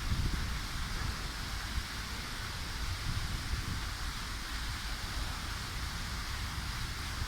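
Wind buffeting the microphone as a gusty low rumble, over a steady hiss of wind through foliage.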